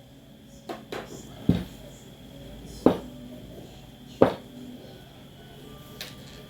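Sharp knocks at uneven intervals, about six of them, the loudest two near the middle, from work on a boot being resoled.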